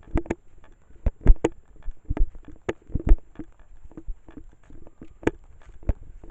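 Footsteps of a person walking: a run of short, sharp, unevenly spaced steps and knocks, some in quick pairs.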